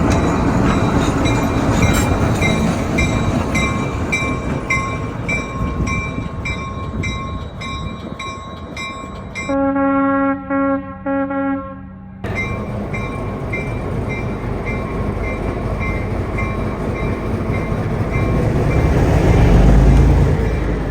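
Railroad grade-crossing bells ring about twice a second over the rumble of a train. About halfway through, a locomotive horn sounds three blasts, the first longest. Near the end the train's rumble swells as it passes close by.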